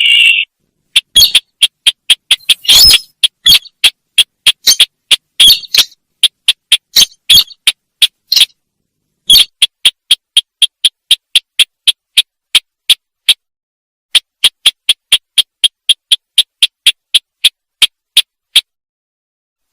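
Recorded lure call of the sintar bird: a fast series of short, sharp, high chirping notes, about two to three a second, broken by a couple of brief pauses.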